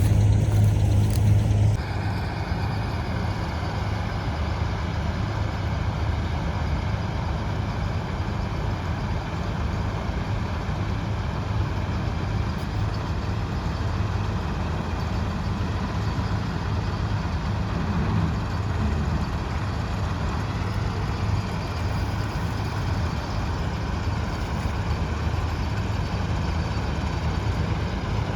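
Preet 987 combine harvester running while cutting wheat: a steady engine drone under the noise of its machinery. It is louder for the first two seconds, then settles to a steady, lower level.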